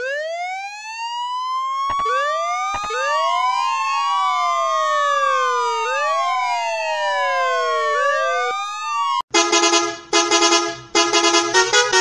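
Three police car sirens wailing together: one starts, a second joins about two seconds in and a third a second later, their rising and falling tones overlapping. They cut off about nine seconds in and give way to short, rapidly repeated tonal blasts.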